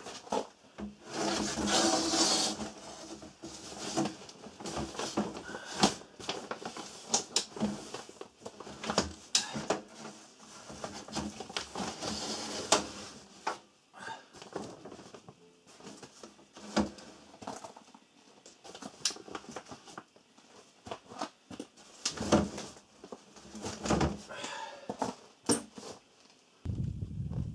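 Irregular knocks and clicks mixed with short bursts of rustling, the sound of things being handled and set down.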